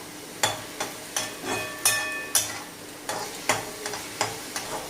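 Spatula knocking and scraping against a kadai as chicken mince in masala is stirred and fried, about two knocks a second, several ringing briefly, with a low sizzle underneath.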